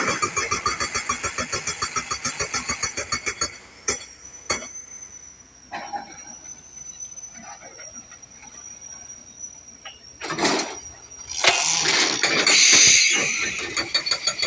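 Crawler rock drill's percussive hammer rapping rapidly while drilling, then stopping about four seconds in, leaving a thin high whistle. Two loud rushing bursts of noise follow, and the rapid hammering starts again near the end.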